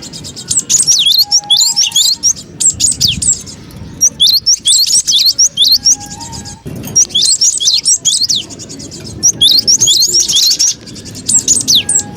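Cinereous tit (gelatik batu) calling excitedly: rapid bursts of sharp, high chirps broken by short pauses, the noisy call used as a lure to draw other birds in.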